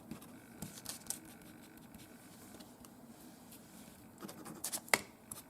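Faint scratching and light tapping of paint being worked onto a craft project by hand, with a few small clicks and one sharper click about five seconds in.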